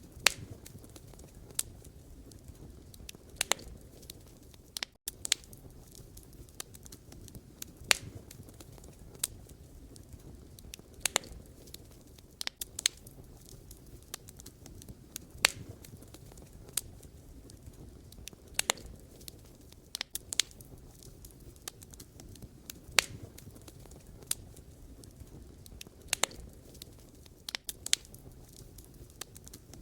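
Wood fire burning, its logs crackling with irregular sharp pops over a low steady rumble of flame. There is a split-second gap in the sound about five seconds in.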